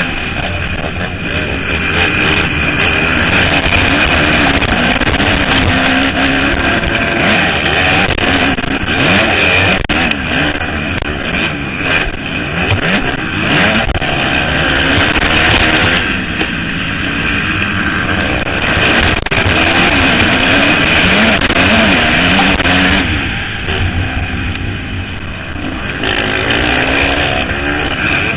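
Several motocross bikes running hard together, their engine pitch rising and falling with the throttle. About three-quarters of the way through, the sound eases for a few seconds, then builds again.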